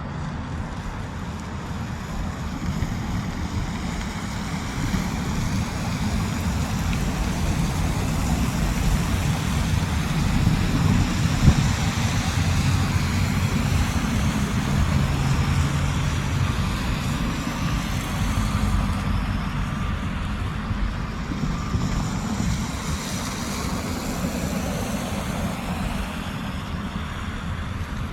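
Diesel locomotives working as a train pulls out, a low engine rumble that swells for a while and then eases off.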